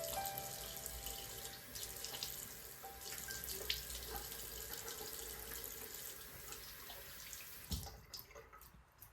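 Water running from a tap into a sink, shut off near the end with a short knock.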